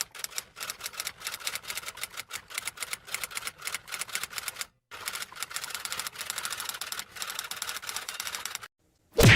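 Typewriter keys clacking rapidly and unevenly, with a short pause about halfway. One loud clunk comes near the end.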